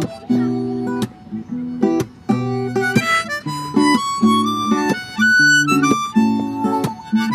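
Instrumental break of an acoustic folk song: harmonica playing a melody of held notes over strummed acoustic guitar chords.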